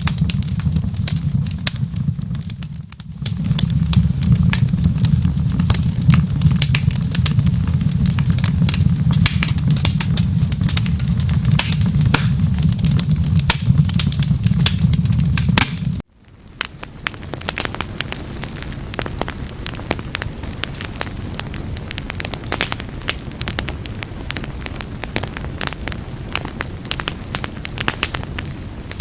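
Wood fire crackling with dense, irregular pops. A heavy low rumble underneath cuts off abruptly about sixteen seconds in, leaving the crackling alone and somewhat quieter.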